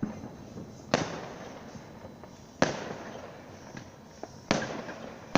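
Fireworks exploding: three sharp bangs roughly two seconds apart, each followed by a fading echo, with a smaller crack just before the third.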